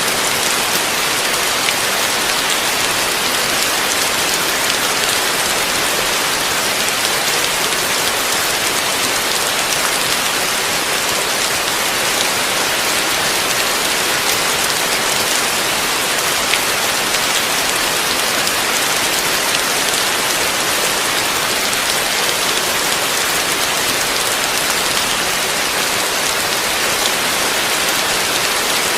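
Heavy rain falling steadily on a surface, a dense, even hiss of countless drops with no breaks or changes.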